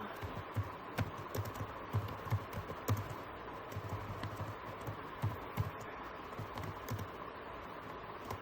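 Computer keyboard typing: irregular keystroke clicks with dull low thuds, tapering off near the end.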